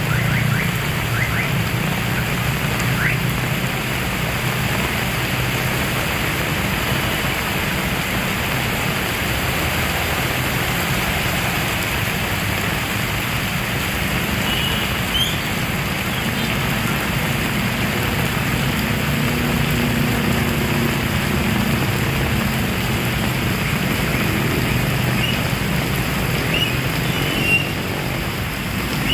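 Heavy rain falling steadily, with a low steady rumble underneath.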